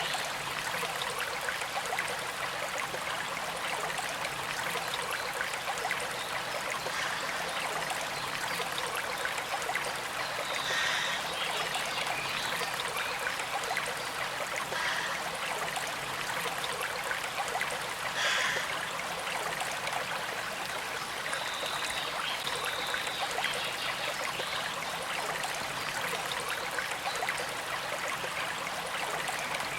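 Small creek flowing steadily with a gentle trickle, an even water noise with a few brief brighter splashes.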